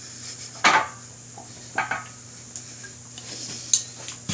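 Metal hand tools and fasteners clinking during rotor-bolt torquing on a motorcycle wheel: a handful of sharp, separate metallic clinks with a short bright ring.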